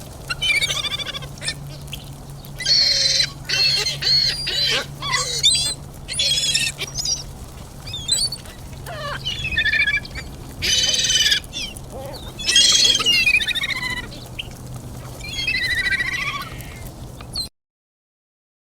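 Birds calling in a series of harsh squawks, each lasting about a second, over a low steady hum; the calls stop abruptly near the end.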